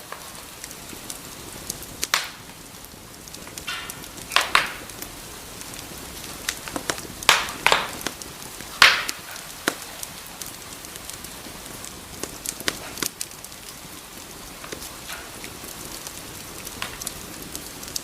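Wood fire crackling in a fireplace over a steady hiss of burning, with irregular sharp pops and snaps. A cluster of louder pops comes about four to nine seconds in.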